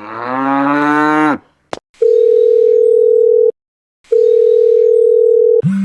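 A cow moos once in a long call that rises in pitch, then a click follows. After it come two long, steady electronic beeps with a short gap between them, and a lower beep starts near the end.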